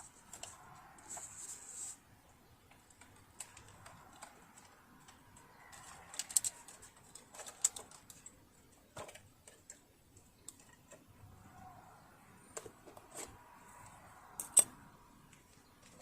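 Irregular small clicks and taps of tools and parts being handled while working on a partly dismantled sewing machine, with one sharper click near the end.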